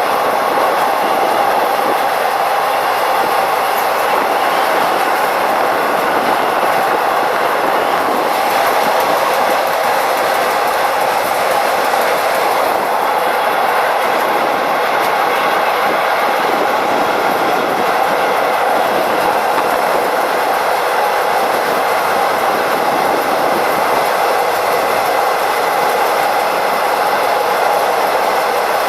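Test train running steadily along the track at up to 60 km/h, a constant rumble and rail clatter with a faint steady tone.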